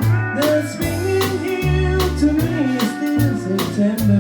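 Small band playing a swing-style pop number: pedal steel guitar fills with sliding, gliding notes over walking bass, drum kit and rhythm guitar, between vocal lines.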